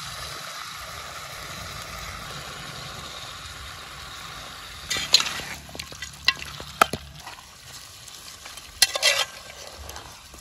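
Chicken pieces sizzling in hot oil in a pan, a steady frying hiss, with a few louder brief bursts and clicks about five seconds in and again near the end.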